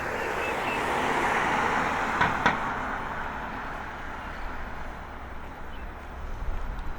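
A road vehicle passing: a rush of road noise that swells over the first two seconds and slowly fades away, with two sharp clicks just after two seconds in.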